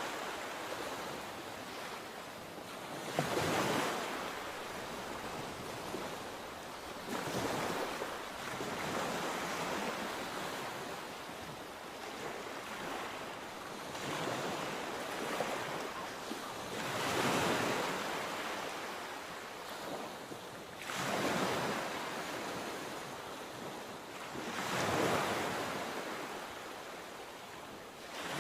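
Sea waves breaking and washing up the shore, a surge of surf every few seconds that swells and fades, over a steady hiss of water with some wind on the microphone.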